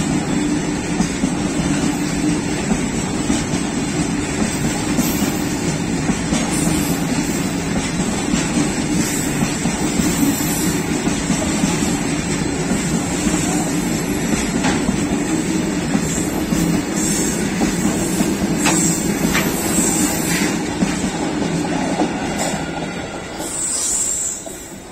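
Freight train of covered BCNA wagons rolling past at close range: a steady rumble with the clatter of wheels over the rail joints. There is a brief high squeal near the end, and the sound drops away as the last wagon clears the crossing.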